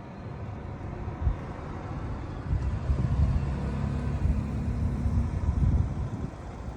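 Strong gusty wind rumbling on the microphone, with a road vehicle's engine humming past for a few seconds in the middle, starting about two and a half seconds in and fading out near five seconds.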